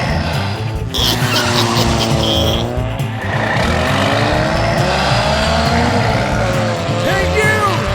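Car engine sound effects whose pitch glides up and down, as in racing or revving, over background music.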